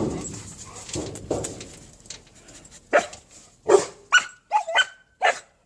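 Dog giving a quick series of short, sharp barks, six or seven in the last three seconds, after a fading rustle.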